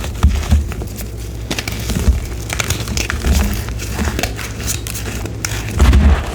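Block of gym chalk crunching and crackling as it is crushed, in an irregular run of dry crackles with a heavier low crunch near the end.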